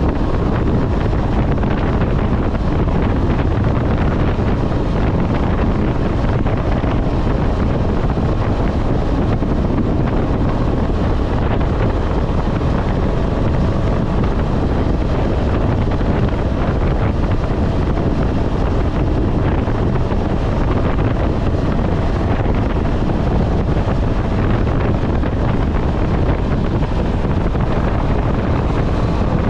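Steady wind rush on the microphone while riding a KTM 250 Adventure at highway speed, with the motorcycle's single-cylinder engine running underneath at a constant pace.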